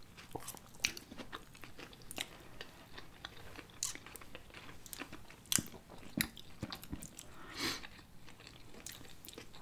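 Close-up chewing and biting of sushi rolls, with scattered small crunches and wet mouth clicks, a few sharper crunches just past the middle.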